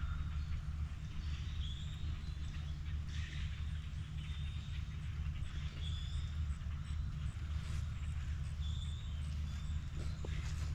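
Footsteps of a person walking outdoors over a steady low rumble, with a few brief high chirps scattered through.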